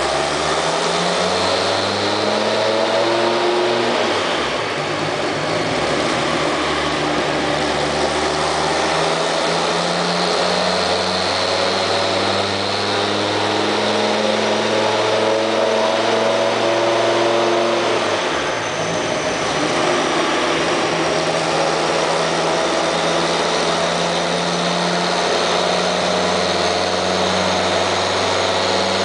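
Twin-turbo Dodge Viper's V10 running on a chassis dyno at part throttle. The engine note climbs slowly, eases off twice (a few seconds in and about two-thirds through), then climbs again, with a faint high whine rising in the second half.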